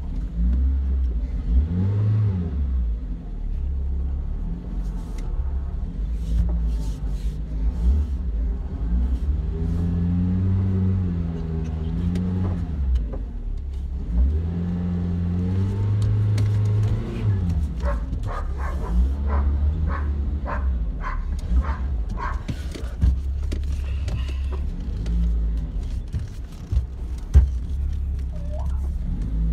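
Peugeot 309 engine heard from inside the cabin while the car is driven, its pitch rising and falling several times as it accelerates and eases off. Partway through there is a short run of evenly spaced clicks, about one and a half a second.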